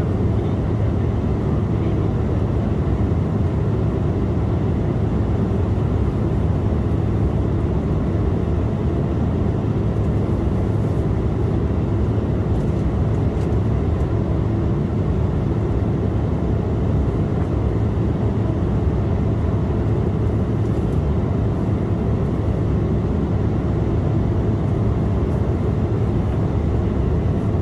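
Steady cabin noise inside an Embraer E175 jet airliner in flight: a constant low rumble of its twin CF34 turbofan engines and the airflow over the fuselage, with no change in level.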